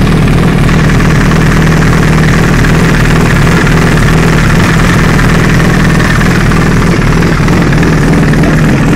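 2008 Honda CBR1000RR's inline-four engine idling steadily with a clack-clack rattle like a Ducati dry clutch, which the owner suspects comes from the clutch basket.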